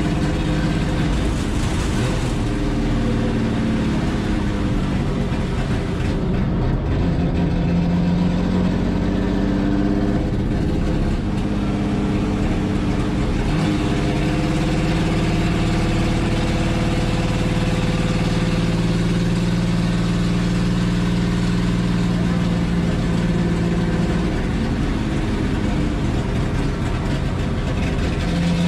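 Chevrolet Opala 250's 4.1-litre straight-six race engine heard from inside the stripped cabin under hard running. It is loud and continuous. Its pitch falls a couple of seconds in, climbs again and holds high through a long stretch, then dips and picks up near the end.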